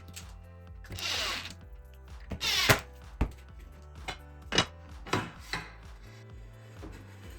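Background music with a steady bass line, over which a workshop tool is handled: two short rasping noises, then a series of sharp wooden knocks about half a second apart.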